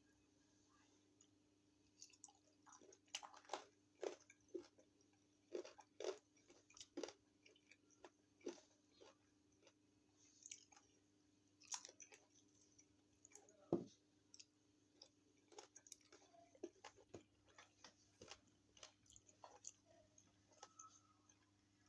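Close-miked chewing and crunching of chicken feet: irregular crisp bites and chews, starting about two seconds in, with one sharper crunch about fourteen seconds in, over a faint steady electrical hum.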